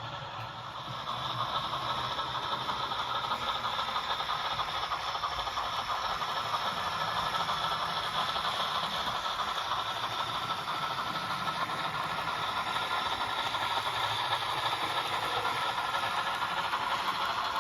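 Steam locomotive sound effects from the model's DCC sound decoder: a steady hiss of steam that comes up about a second in and holds.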